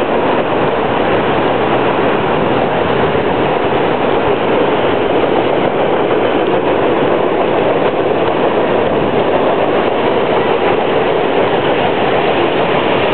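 Freight train of autorack cars passing close by, its wheels and cars running on the rails with a loud, steady noise.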